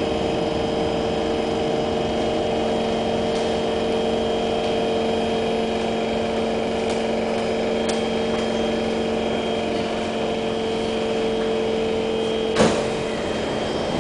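Steady electrical hum and whine inside an SMRT C151 train car, several tones held at a constant pitch with a few faint ticks. Near the end a sharp clunk sounds and the hum cuts off, just before the doors stand open.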